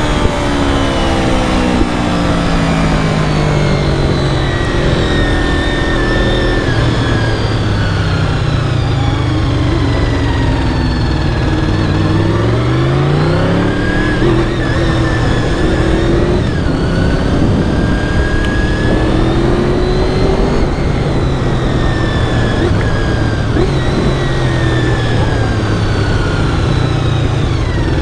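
Honda VFR750's V4 engine running under way, with wind rushing past the helmet microphone. The engine note drops over the first few seconds as the bike slows, then rises sharply near the middle as it accelerates, and wavers with the throttle after that.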